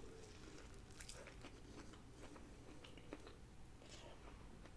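Faint chewing of chicken wings, with a few soft mouth clicks scattered over a quiet background.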